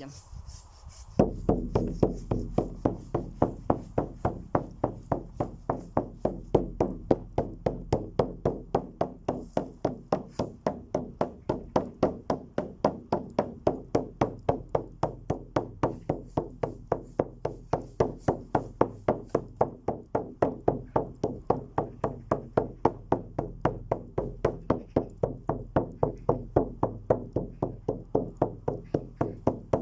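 Drum struck in a steady, even beat of roughly two to three strikes a second, starting about a second in, over a low steady drone.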